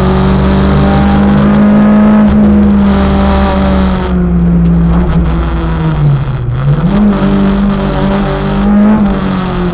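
Toyota KE25 Corolla's 4A-GE 1.6-litre twin-cam four-cylinder engine, heard from inside the cabin while driven on a race circuit. The engine note holds high, sags from about four seconds in, climbs sharply again about seven seconds in, and drops near the end.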